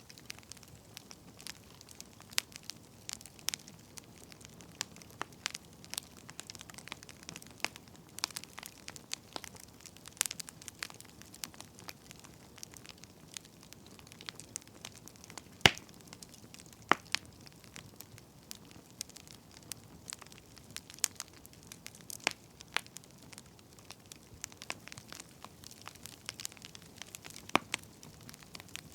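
Wood fire crackling, with irregular sharp pops over a faint hiss; one louder pop about halfway through.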